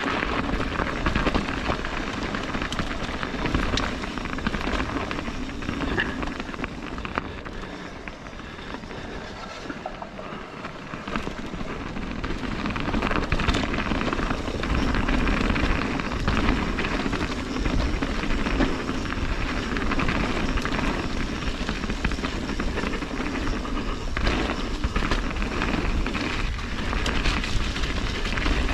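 Mountain bike riding down a dirt trail: steady crunching tyre noise and rattling over rough ground, easing off for a few seconds partway through.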